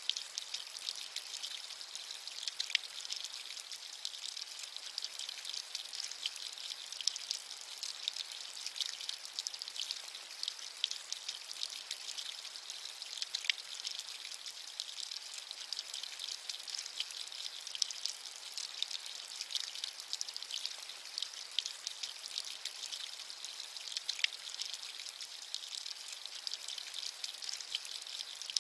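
Steady rain with a dense patter of fine drops, a high, even hiss without pauses.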